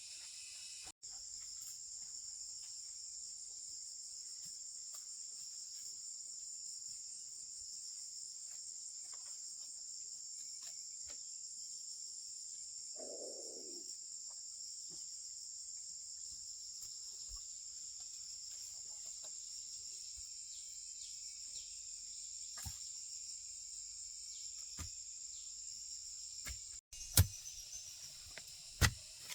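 A steady, high-pitched chorus of insects trilling, with a brief low sound about halfway through and a few sharp knocks near the end.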